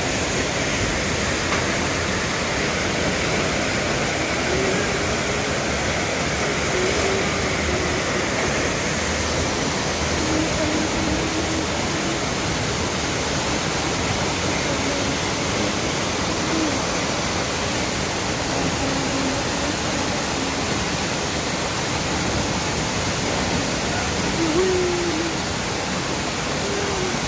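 Flash-flood water rushing under heavy rain: a steady, unbroken rush of water noise.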